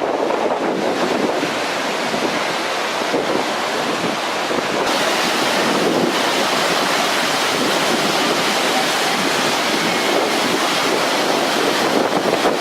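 Waterfall roaring: a steady, dense rush of falling water that grows a little louder and brighter about five seconds in.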